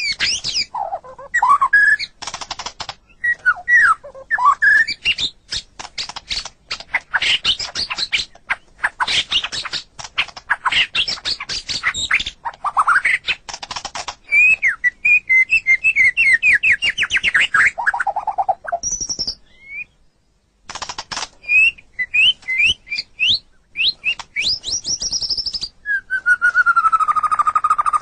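White-rumped shama (murai batu) singing a varied song of clear whistles, fast rattling chatter and trills. There is a short pause about twenty seconds in, and a long falling whistle near the end.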